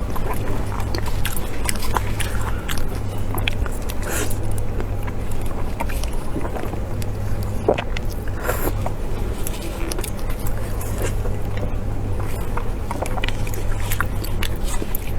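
Close-miked chewing and biting, with many short clicks and mouth noises scattered irregularly over a steady low hum.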